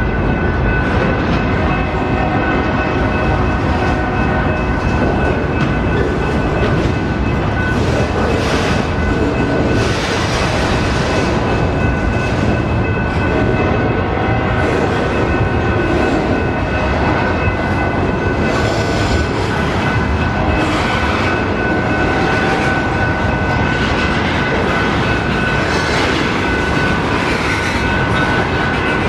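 Union Pacific mixed freight train rolling past close by: a steady loud rumble and clatter of the cars, with a sharp clank every few seconds and a constant high-pitched ringing tone above it.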